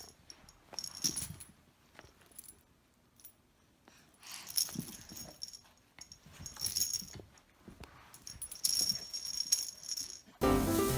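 Several short bursts of metallic jingling and rattling. Music starts near the end.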